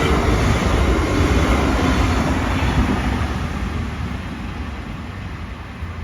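Brightline passenger train passing at speed, a rushing rumble that fades steadily as the train moves away.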